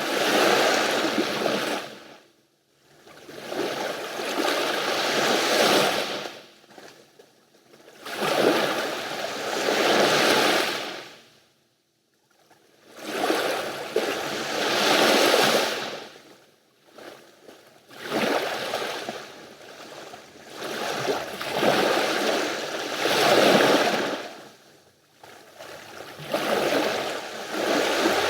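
Mediterranean sea waves washing onto the shore, each one swelling and fading every three to four seconds with brief lulls between.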